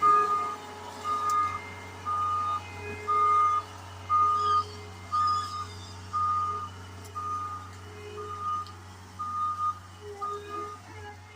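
Skid steer backing up, its back-up alarm beeping in a steady single tone about once a second over the engine's steady running.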